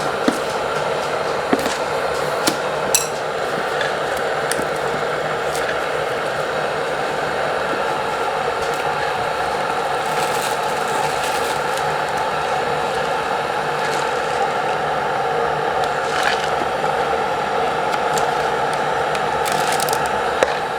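Electric kettle heating water toward the boil: a steady rushing hiss, with a few light clicks in the first few seconds.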